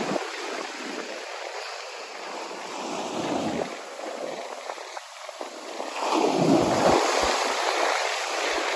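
Ocean surf and rushing water close to the microphone, with wind buffeting it; the water noise swells louder about six seconds in.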